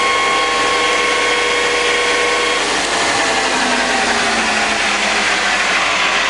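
Victor centre lathe running with its spindle at about 1800 rpm, a steady gear whine over the running noise. About two and a half seconds in the whine drops away and the machine keeps running steadily.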